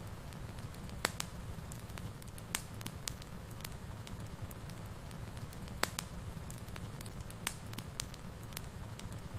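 Wood fire burning in a fireplace: a steady low rumble of flames with sharp, irregular crackles and pops from the burning logs, a handful of louder pops among many faint ones.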